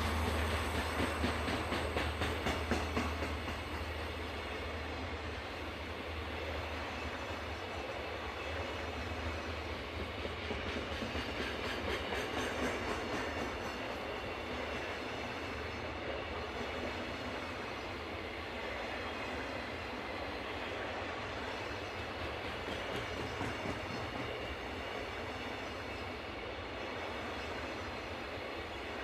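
Long freight train's wagons rolling past at speed, wheels clicking over the rail joints, as the low drone of the diesel locomotives fades in the first few seconds.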